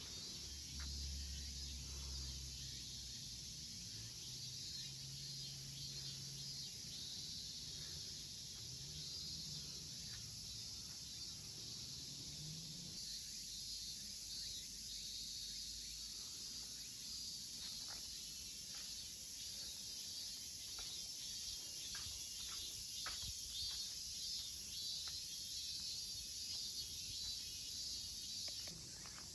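Steady high-pitched chorus of insects, with scattered light clicks and ticks in the second half.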